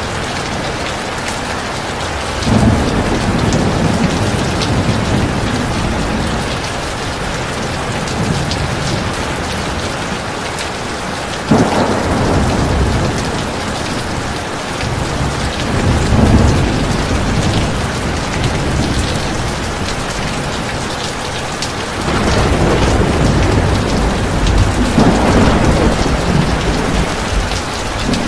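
Heavy rain falling steadily, with rolls of thunder rumbling under it. There is one about two seconds in, a sharper clap a little before halfway, and a longer, stronger rumble building through the last third.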